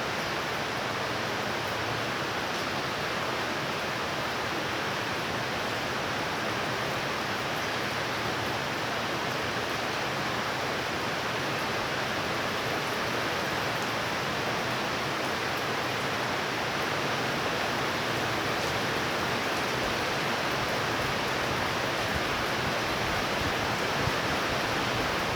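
Heavy rain pouring down steadily during a thunderstorm, a continuous even hiss that swells slightly near the end.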